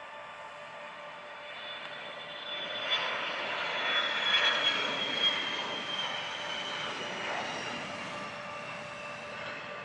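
Business jet's turbine engines passing by. A high whine slides slowly down in pitch over a rush of engine noise that swells to its loudest about halfway through, then fades.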